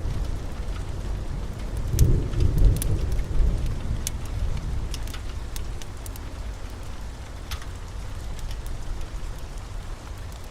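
Wood fire burning in a fireplace: scattered sharp crackles and pops over a low rumble that swells about two seconds in, then eases off.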